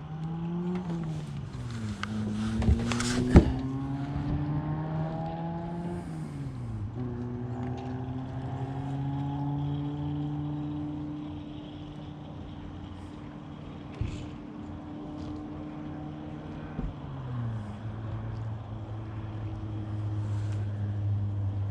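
Boat motor running, its pitch climbing over the first few seconds, then dropping twice, first back to a steady cruising note and near the end to a low steady drone. Two sharp knocks come about three seconds in.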